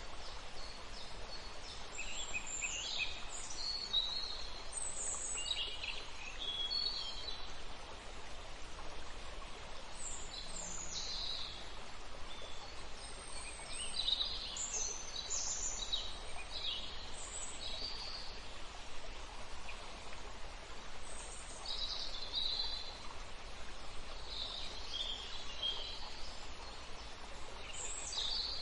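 Songbirds chirping and trilling in short, scattered phrases over a steady background hiss of outdoor ambience.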